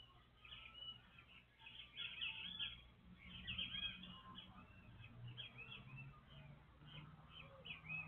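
Small birds chirping: a busy run of short, quick chirps and twitters, thickest in the first half and thinning out toward the end.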